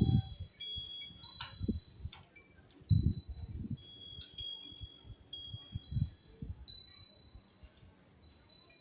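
A wind chime ringing: several high, clear notes struck at irregular moments and left to fade, overlapping one another. Dull low thumps come in now and then, the strongest about three seconds in.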